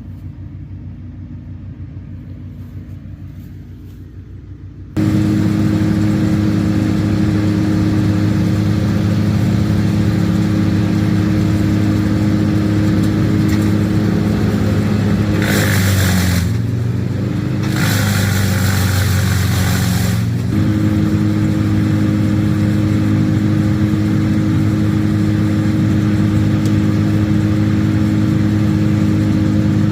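An engine hums quietly, then about five seconds in a loud engine comes in running steadily at high speed. Midway it labours for about five seconds, its pitch sagging under a loud rasping, shredding noise, then picks back up to full speed.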